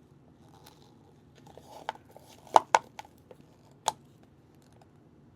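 A spatula scraping leftover epoxy resin out of its container, with a handful of sharp taps and clicks between about two and four seconds in.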